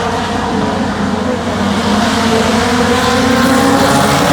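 Several mini stock race cars running at speed around a short oval track. Their overlapping engine notes rise and fall, and the sound grows a little louder toward the end.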